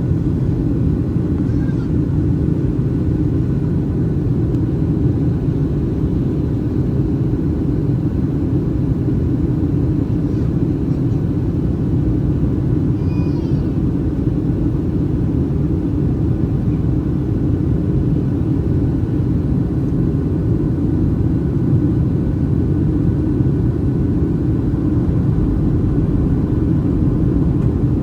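Steady rumble of a Boeing 737-800's CFM56 jet engines and airflow, heard inside the economy cabin over the wing during flight.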